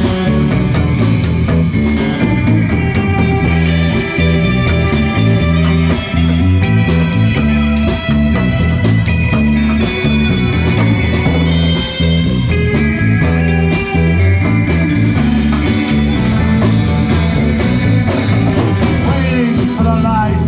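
Live rock band playing a passage without lyrics: electric lead guitar holding long melodic notes over bass guitar and a steady drum beat.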